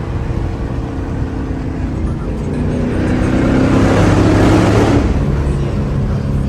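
Car engines running with a steady low rumble, while one car grows louder to a peak about four seconds in and then drops away, as it drives past.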